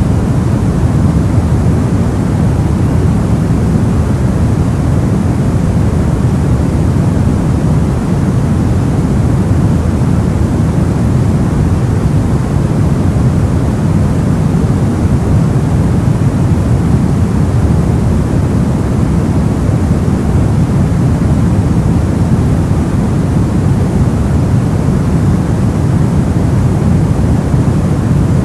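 Soft white noise for sleep: a steady, even hiss weighted toward the low end, so it sounds deep and muffled rather than bright. It does not change.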